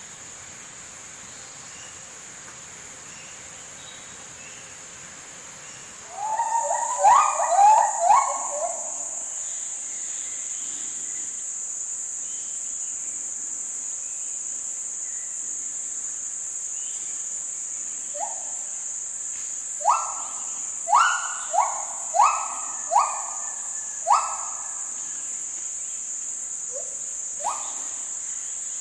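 Gibbons calling in a series of rising hoots: a quick cluster of them about six seconds in, then about six more, evenly spaced, in the second half. Under them runs a steady, high insect chorus that grows louder just as the first calls start.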